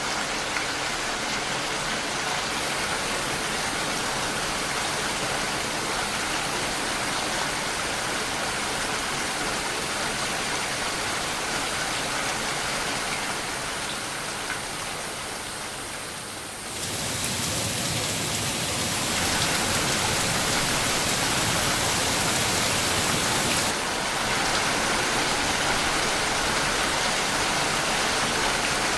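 Steady rain noise. A little past halfway it dips slightly, then jumps abruptly louder and fuller, like a cut to another rain recording, and eases back a step a few seconds later.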